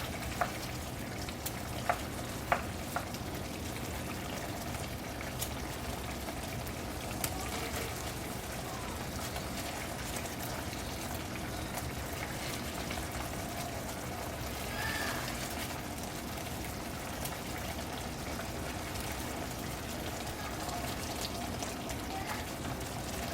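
Breaded chicken cutlets frying in a pan of wine, lemon and butter sauce, the sauce sizzling steadily as it reduces and thickens over high heat. A few light clicks sound in the first seconds.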